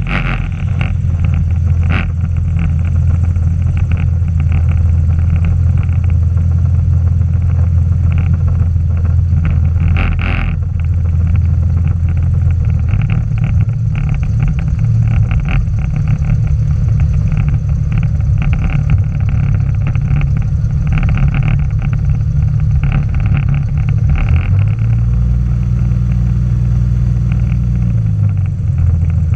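Screamin' Sasquatch biplane's engine running loudly and steadily, its low note shifting a couple of times.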